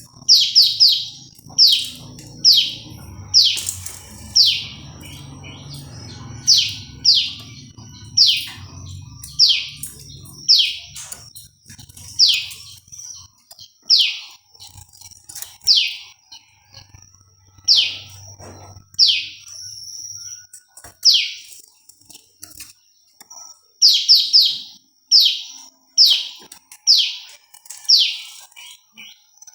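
A prenjak lumut gives loud, sharp chirps, each sweeping quickly downward, repeated every half second to a second and often run together in quick pairs or threes. A faint steady high-pitched tone sits behind them, and a low rumble is heard through the first third and again briefly past the middle.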